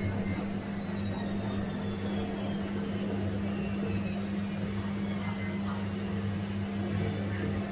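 Bosch washing machine running with a steady low hum, while a high motor whine slowly falls in pitch and fades out about five seconds in.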